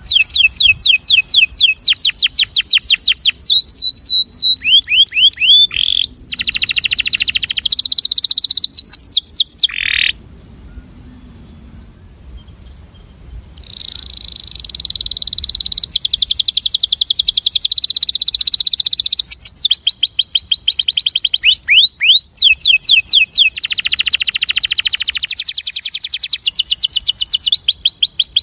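Male breeding canary singing its attraction song: fast trills of rapidly repeated sweeping notes, changing from one phrase type to the next. It breaks off for about three seconds after about ten seconds, then resumes.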